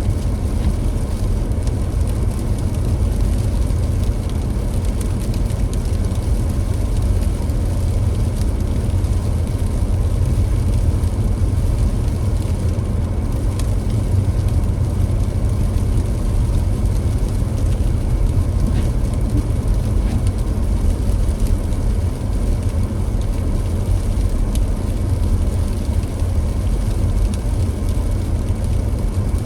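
A car driving at a steady pace: a continuous low rumble of road and engine noise with an even hiss above it.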